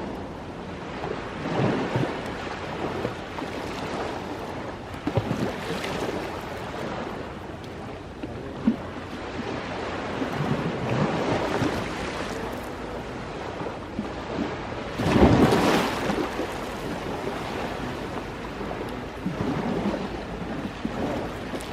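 Ocean waves washing onto a shore, a steady rush with swells every few seconds; the biggest wave breaks about fifteen seconds in.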